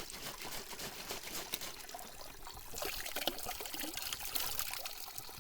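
Water trickling and splashing at a forest spring as a small jar is rinsed and its water poured out.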